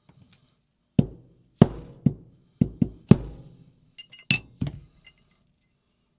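Small metal tools and parts knocked and set down on a workbench: about eight sharp, irregular clinks and knocks over four seconds, one of them with a brief high ring.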